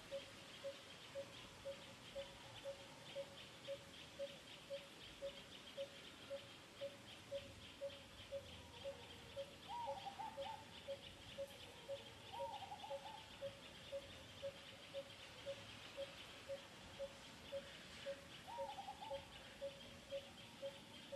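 A bird calling with a single low note repeated evenly, about twice a second, over a faint high insect-like trilling, with three short squeaky rising-and-falling calls about halfway through and near the end.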